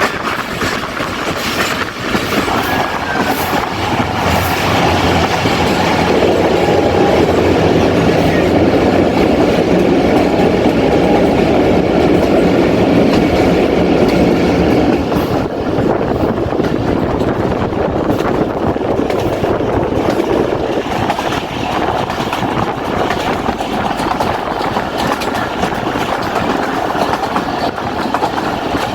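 Jaffar Express passenger train running, heard from on board: a steady loud rumble of the carriage with wheels clattering over the rail joints.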